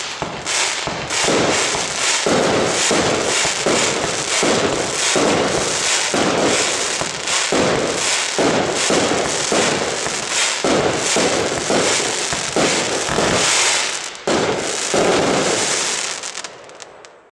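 A 25 mm consumer fireworks battery (a 132-shot cake) firing shots and bursts in rapid, continuous succession, dying away near the end.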